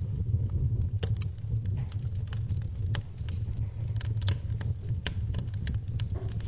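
Wood fire in a fireplace crackling, with frequent irregular sharp pops over a steady low rumble, and rain in the background.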